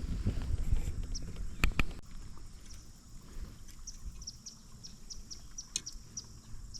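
Handling bumps and two sharp knocks in the first two seconds, then a small bird chirping, a quick run of short high chirps about two to three a second.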